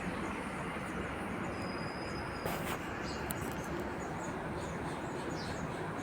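House sparrows chirping faintly and repeatedly over a steady rumble of background noise. A brief knock or rustle comes near the middle.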